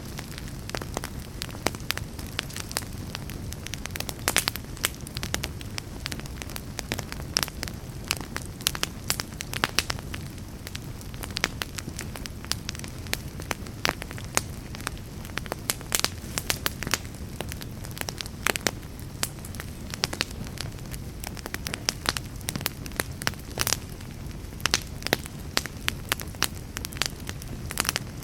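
Wood fire burning in a fireplace: a steady low rumble of flames with frequent sharp crackles and pops, several clusters of louder snaps throughout.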